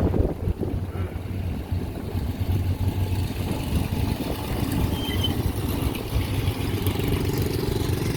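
A car's engine running as it drives past, with a rumble of wind buffeting the microphone.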